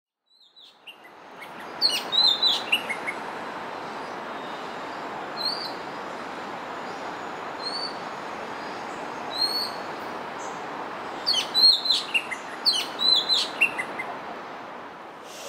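Oriental magpie-robin singing: bursts of quick, varied whistled notes near the start and again past the middle, with single short rising whistles every couple of seconds in between, over steady background noise.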